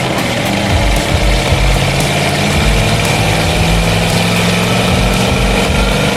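An old truck's engine idling steadily.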